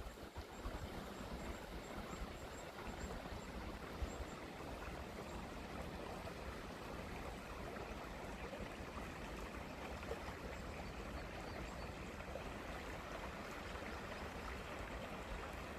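Water in a forest stream running steadily, an even rushing sound.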